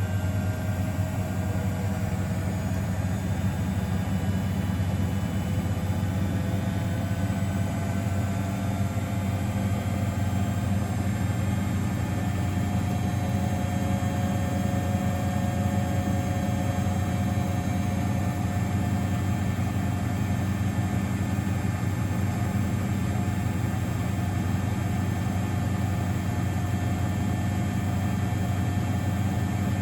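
Miele Novotronic W921 washing machine running with a steady hum and faint whining tones that drift slowly in pitch.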